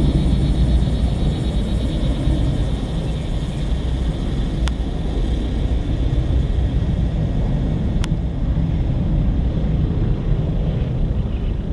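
Jet aircraft noise from an Airbus A319-132's IAE V2500 turbofans: a steady deep rumble with a hiss above it that thins out in the second half. Two faint ticks, about 5 and 8 seconds in.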